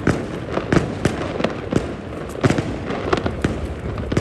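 New Year fireworks going off all around in a continuous, irregular barrage of bangs and crackles, several a second.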